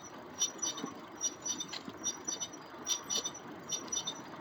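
Ride on an electric trike across a bridge: a steady low rolling rumble, with short high chirping clicks coming irregularly several times a second.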